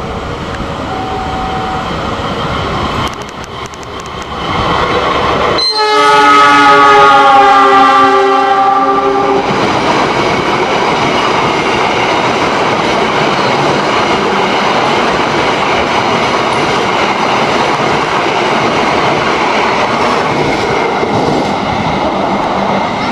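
Diesel locomotive sounding its horn in one long blast of about four seconds, starting about six seconds in, as it approaches. A long line of steel passenger coaches then rolls past close by with steady wheel-on-rail noise.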